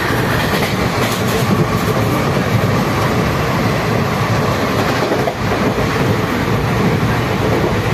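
Steady running noise of a moving passenger train, heard from inside a coach with open barred windows.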